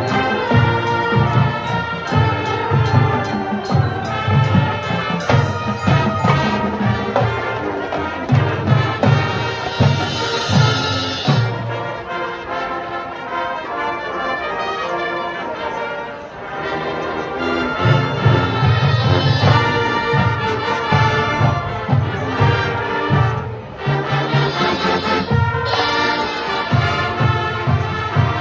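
High school marching band playing, brass over a drumline. The low drums drop out for several seconds in the middle while the horns carry on, then come back in.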